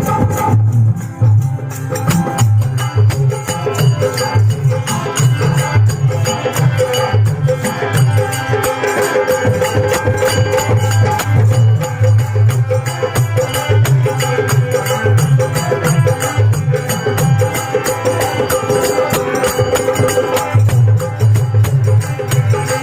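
Instrumental folk devotional music: a dholak beats a steady, busy rhythm under jingling percussion and held melodic notes.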